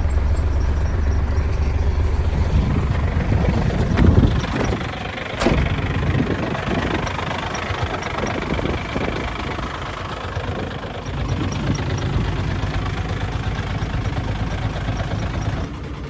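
MAN truck diesel engine idling steadily after a cold start, with the squeak and ticking in the engine that the driver hears only while it is cold and cannot explain. Two sharp clicks come about four and five and a half seconds in.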